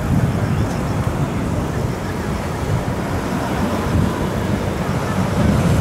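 Tokyu Toyoko Line electric commuter train running over a viaduct bridge: a steady low rumble, mixed with wind buffeting on the microphone.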